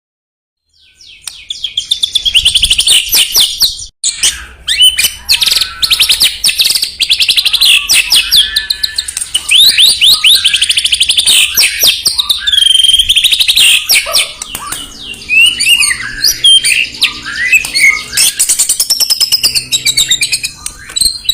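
White-rumped shama (murai batu) singing a fast, varied song of rapid whistles, trills and rising and falling notes. The song starts about a second in and runs without pause.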